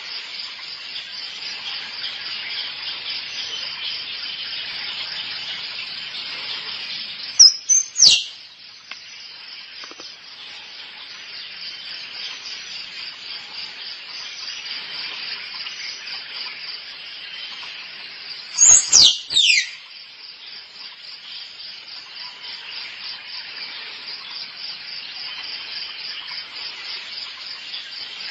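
Squirrel calls: two loud bursts of sharp, high squeaky calls, each of two or three notes falling steeply in pitch, about 8 and 19 seconds in. A steady pulsing insect chorus runs underneath.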